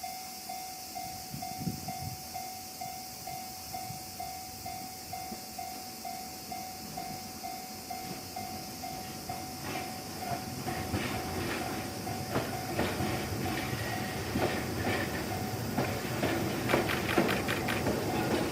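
A level-crossing warning bell rings in steady pulses about twice a second, fading out about two-thirds of the way in. A Keihan 700 series two-car electric train draws nearer, its wheels clacking over the rail joints louder and louder toward the end.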